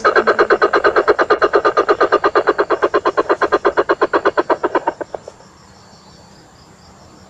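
A rapid, even train of pulsed calls, about eleven pulses a second, that stops about five seconds in.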